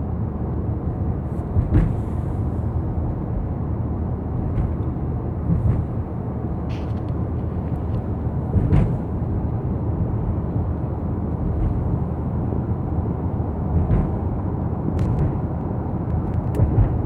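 Steady low rumble of a car driving on the highway, heard from inside the cabin, with a few brief clicks and knocks scattered through it.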